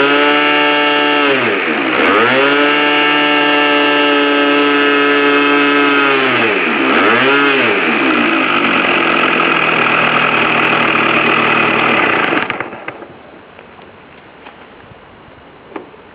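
Model glow-plug (nitro) engine with an onboard glow-plug heater running at high revs, throttled down and back up around 2 s and again around 7 s. It cuts out abruptly about twelve and a half seconds in.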